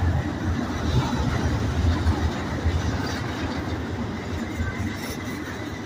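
Double-stacked intermodal container well cars rolling past close by: a steady rumble of steel wheels on rail, with rattle and clatter from the cars. It grows slightly fainter toward the end.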